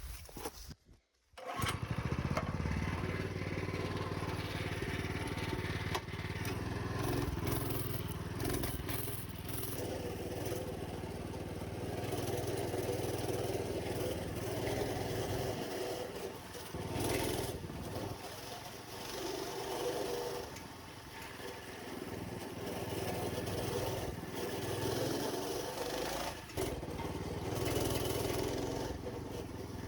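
Old minibike's small engine running after a brief silence about a second and a half in, its level rising and falling with the throttle as the bike rides along.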